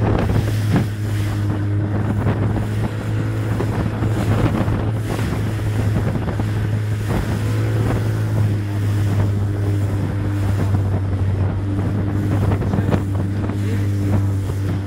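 Evinrude 40 H.O. outboard motor running steadily under way, with wind on the microphone and water rushing past the hull, broken by scattered knocks of the hull meeting waves.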